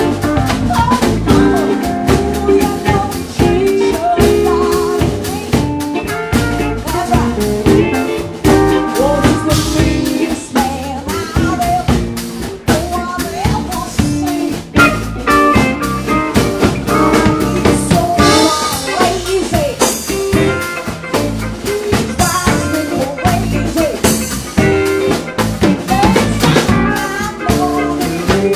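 Live blues band playing: a drum kit keeping a steady beat with rimshots, under guitar and bass, with a singer's voice.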